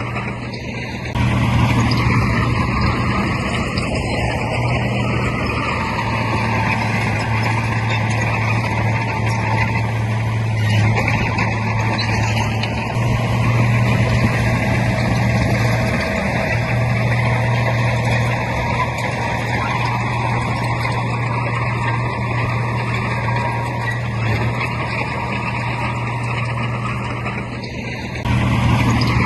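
Heavy diesel engine of earthmoving machinery running steadily under load, a deep hum over a broad mechanical noise. It gets louder about a second in and drops briefly near the end.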